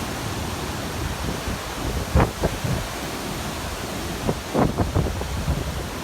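Wind buffeting the microphone in gusts, about two seconds in and again near the five-second mark, over a steady rush of wind and surf.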